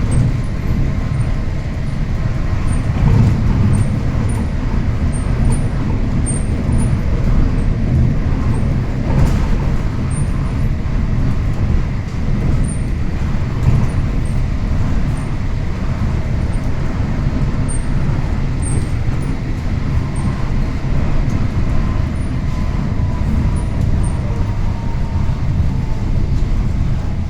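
Monorail train running, a steady low rumble with a faint whine that slides down in pitch near the end.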